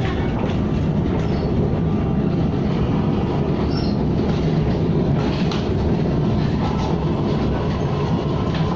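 Steady rumble of a KTM ETS electric train running at speed, heard from inside the passenger coach, with faint clicks and rattles over the top.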